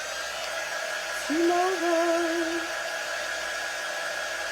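A handheld hot-air dryer running steadily, with a faint whine over its blowing. About a second in, a woman hums a short wavering note for about a second and a half over it.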